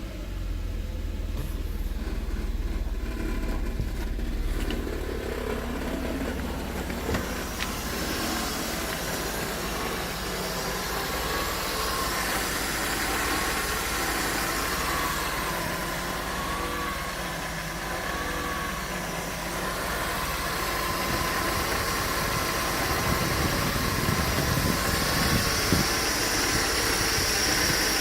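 Mercedes-Benz M103 2.6-litre straight-six engine idling steadily, with a faint wavering whine partway through.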